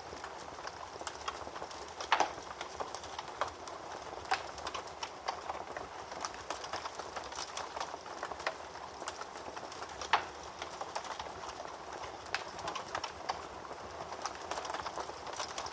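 Wood fire crackling in a fireplace: a steady hiss with irregular sharp pops and snaps, two louder pops about 2 and 10 seconds in.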